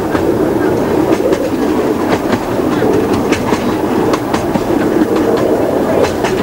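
Miniature 15-inch gauge railway coach running along the track, heard from on board: a steady rumble of the wheels with frequent irregular clicks as they pass over rail joints.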